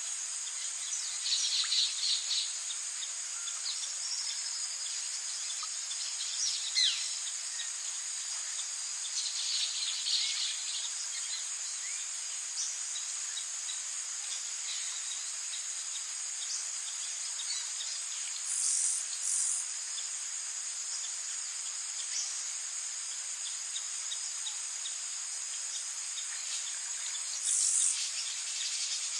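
Tropical rainforest ambience: a continuous high-pitched insect drone, with short bird calls breaking in now and then, about five times.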